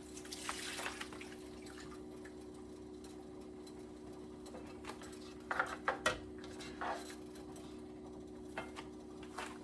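Cooking in a pot on the stove: a brief hiss of liquid near the start, then a few sharp clinks of a utensil against the pot, bunched around the middle and again near the end, over a steady low hum.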